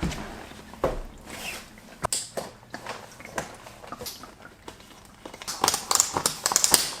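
Snowboard boots and bindings being handled and tried on: irregular clicks and knocks with bursts of rustling, and a busier run of rustling and clicking near the end.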